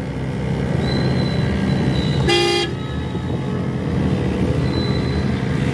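Busy road traffic with engines running steadily, and one short vehicle horn honk a little over two seconds in.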